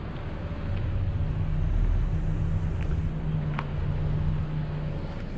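Car engine running steadily with low road rumble while driving over a rough, uneven road surface left by washed-in mud, with a couple of faint clicks partway through.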